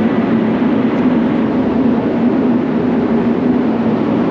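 Spray-booth extraction fans running: a loud, steady airflow rush with a constant low hum.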